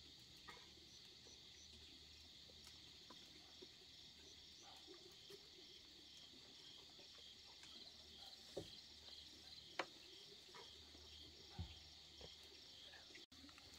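Faint, steady trilling of crickets with a row of evenly pulsed chirps, and a few sharp clicks near the end.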